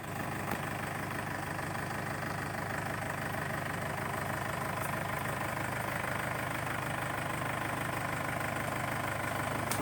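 Mahindra tractor's diesel engine running steadily at an even speed, with no revving.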